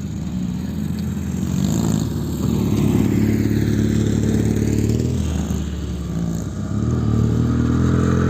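Motocross sidecar outfits' engines running on the track, revving, with the engine sound swelling twice as machines pass.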